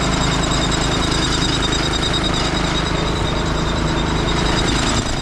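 Vehicle engine running steadily while driving, with road and wind noise over it; the sound changes suddenly at the very end.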